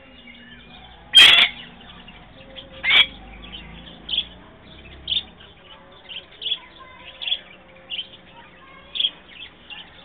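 Bird chirping: short, high chirps about once a second, with a loud, sharp call about a second in and another near the three-second mark.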